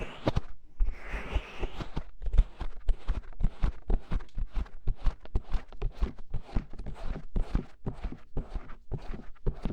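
ASMR ear scratching and ear covering: fingers rubbing and tapping close to the microphone, a fast run of soft muffled taps, several a second, with a longer brushing rub in the first second or two.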